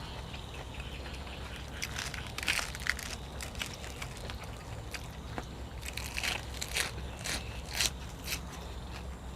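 A person chewing food up close, with irregular crisp, wet crunches beginning about two seconds in over a steady low hum.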